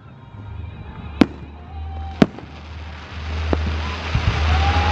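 Aerial fireworks shells bursting overhead: two sharp booms about a second apart, then a fainter one, with a crackle of sparks building over the last couple of seconds.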